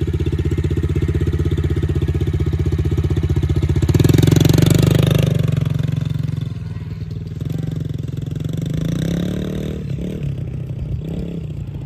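Yamaha TT-R110 dirt bike's small four-stroke single-cylinder engine idling close by, then revving up about four seconds in as it pulls away, its sound fading afterwards.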